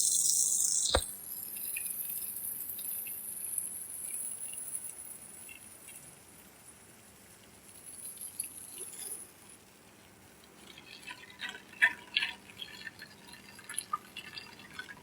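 A loud hiss cuts off with a click about a second in, leaving faint water noise; scattered drips and small splashes of washing water come through in the last few seconds.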